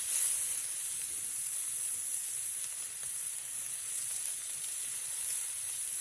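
Meat sizzling steadily on a steel griddle plate, a constant high hiss.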